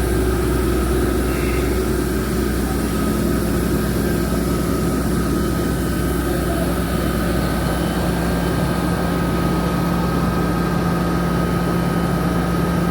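Crane's diesel engine running steadily with its hydraulics, a low engine hum under a thin steady high whine.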